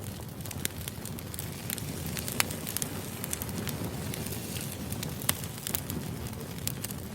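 Wood fire burning: a steady low rumble of flames with frequent sharp, irregular crackles and pops of burning logs.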